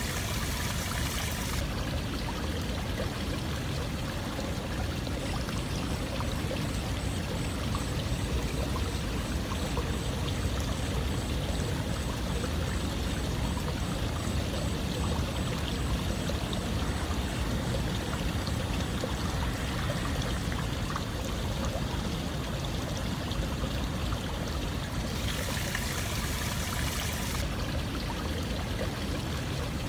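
Running water flowing steadily, an even rushing and splashing with no pauses. It turns brighter and more hissing for a moment just after the start and again about 25 seconds in.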